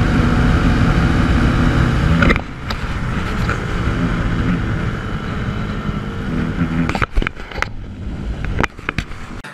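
Motorcycle engine running under way with wind noise on the microphone. A little over two seconds in the throttle closes and the engine drops to a quieter run, with several short knocks near the end.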